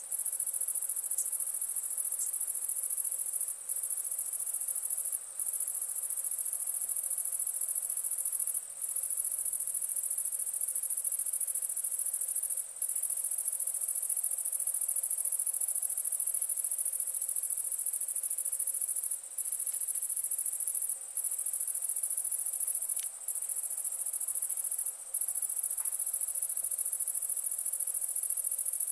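Dense, high-pitched chorus of insects trilling steadily, with the whole chorus briefly cutting out every few seconds. A few faint crackles of the wood fire.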